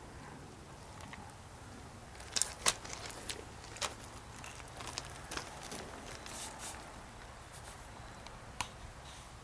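Scattered light crackles and sharp clicks, most of them bunched between about two and seven seconds in, over a faint steady low hum.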